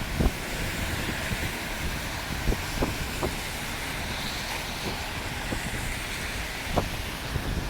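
Wind buffeting the microphone over steady street noise in a snowstorm, with a few short thumps scattered through.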